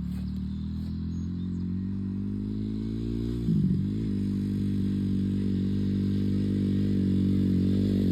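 Dirt bike engine running at steady low revs, growing gradually louder as it comes closer. About halfway through, the pitch briefly dips and recovers, with a short jump in loudness.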